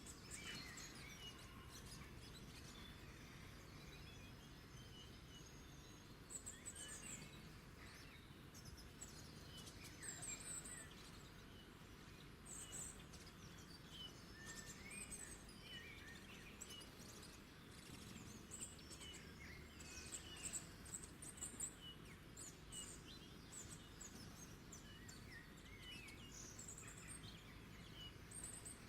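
Small songbirds chirping and singing in short, scattered phrases, several calls overlapping, over a faint low background rumble.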